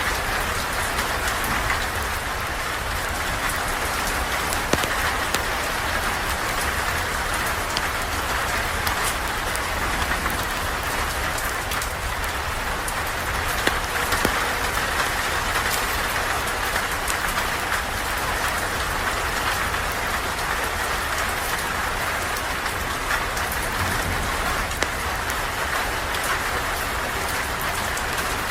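Steady rain falling, with scattered sharp clicks and pops throughout.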